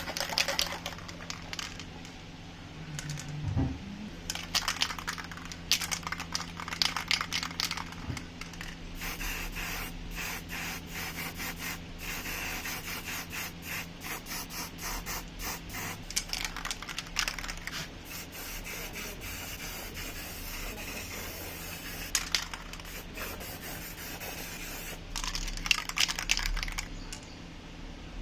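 Quick rubbing and scraping strokes in bursts, hand work on an old table fan during its restoration, over a low steady hum.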